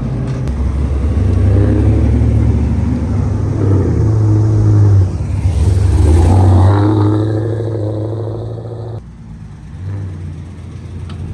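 Car engine revving and accelerating, loud, with a short dip about five seconds in; it drops away about nine seconds in.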